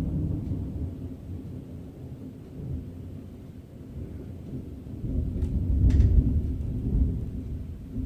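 Thunder rumbling, deep and long, easing off and then swelling again to its loudest about six seconds in.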